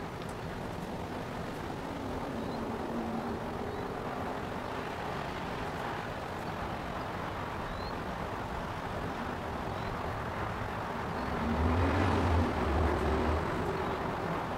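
Steady outdoor engine and traffic rumble. A louder vehicle or engine swells up near the end with a deep hum, then eases off.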